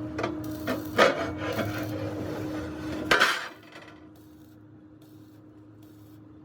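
Workshop clatter: several sharp knocks and scraping over a steady machine hum. The loudest knock comes about three seconds in, then the low rumble stops and only a fainter hum remains.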